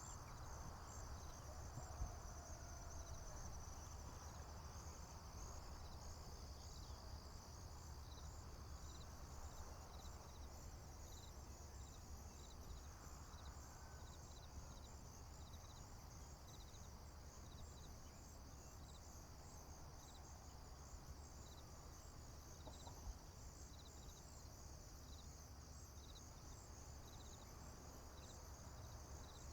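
Faint field insects, crickets among them, chirping in a steady high-pitched chorus of repeated pulses, over a low steady rumble.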